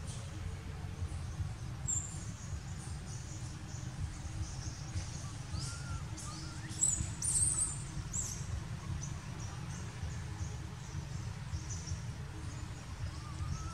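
Outdoor ambience: birds chirping in short high notes several times, loudest between about 7 and 8 seconds, over a steady low rumble.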